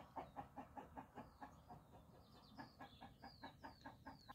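Faint, rapid run of short calls from birds, about four a second, with a few high falling chirps in the second half.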